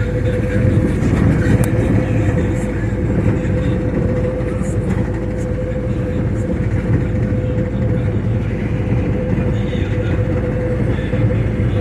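Steady rumble of a moving vehicle with a constant whine.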